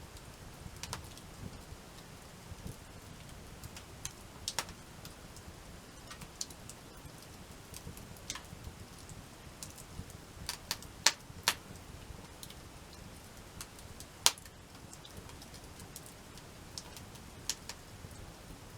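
Wood campfire crackling: scattered, irregular sharp pops and snaps over a low steady hiss, with three louder snaps past the middle.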